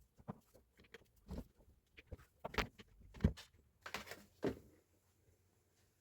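Irregular light knocks and clicks, about a dozen, stopping shortly before the end.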